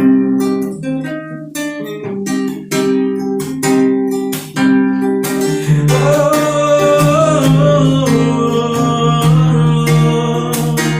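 Acoustic guitar strummed in a steady rhythm as an instrumental break in a sertanejo song. From about halfway a long, slightly wavering sung note is held over sustained guitar chords.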